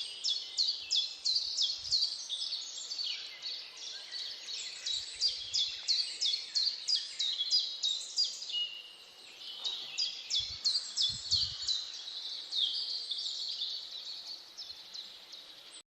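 Birds chirping: a dense run of quick, high, downward-sliding chirps, several a second, easing off briefly around nine seconds in before picking up again.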